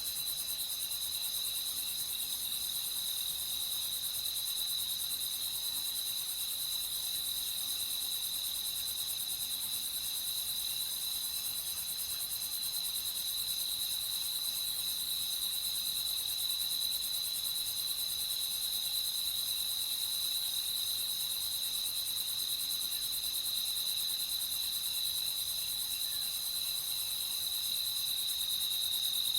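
A night chorus of crickets chirping, a steady high-pitched sound that holds unchanged throughout.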